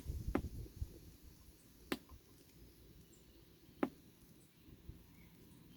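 Three sharp clicks about two seconds apart, a power button on an appliance being pressed repeatedly while it fails to switch on. There is a faint low rumble in the first second.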